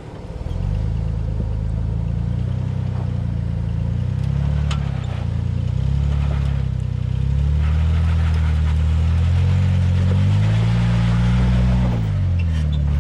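Jeep engine pulling at low speed over a rocky trail, its revs rising and falling as it crawls over obstacles. A steady hiss joins in from about eight seconds in.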